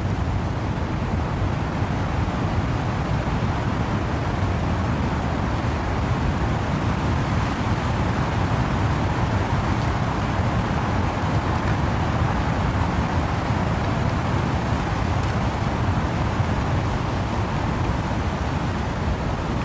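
Steady wind and rain in trees: a dense, unbroken hiss with a heavy low rumble, staying at one level throughout.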